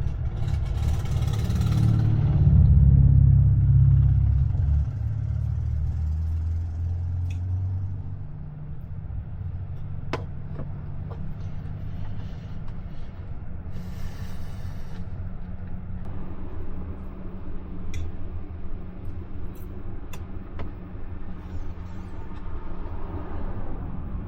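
A motor vehicle passing close by: a low rumble that grows loudest about three seconds in and fades away, leaving a steady lower rumble of traffic with a few faint clicks.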